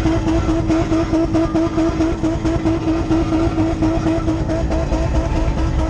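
Drift car's engine held at steady high revs, with a regular wobble in its note about five times a second.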